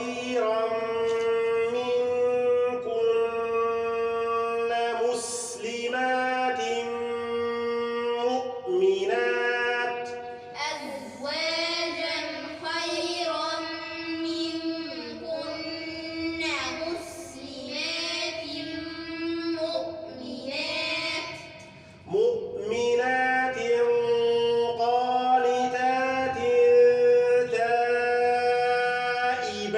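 Group of children reciting Quran verses together in a melodic chant with long held notes, with a short pause between phrases about two-thirds of the way through.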